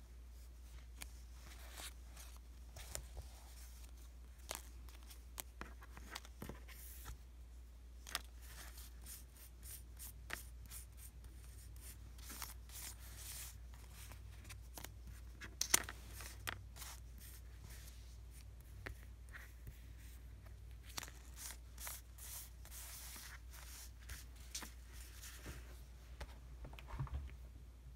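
Stickers being peeled from their backing sheet and pressed down onto paper: scattered light clicks and taps with short papery peeling rasps, and a sharper crackle about halfway through.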